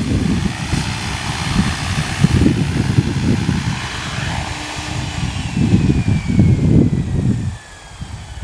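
Heavy wind buffeting on the microphone, the loudest sound, over the faint whine of an electric RC helicopter's motor and rotors in flight. Over the second half the whine falls slowly in pitch.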